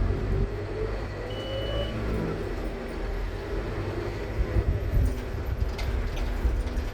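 Scania K230UB Omnilink bus's diesel engine running under a low rumble, with its ZF Ecomat automatic gearbox whining in a tone that rises in pitch during the first couple of seconds as the bus pulls. A few short knocks come near the end.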